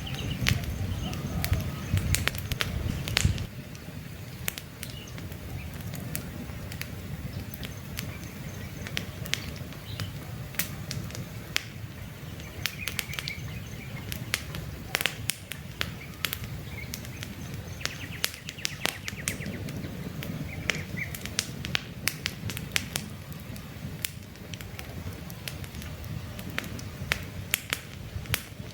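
Wood campfire crackling, with frequent sharp pops over a low rumble of flame; the rumble drops off about three and a half seconds in. A few faint bird chirps come through behind the fire.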